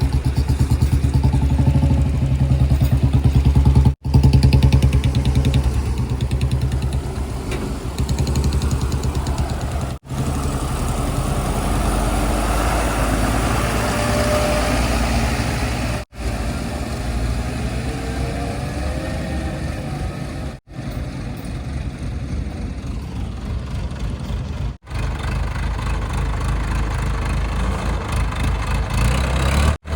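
Heavy diesel machinery engines running steadily with a deep hum, broken by several brief cut-outs. Around the middle the pitch rises a little as an engine revs.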